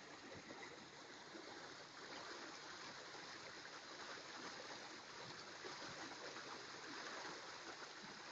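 Steady rush of running water, growing a little louder toward the end.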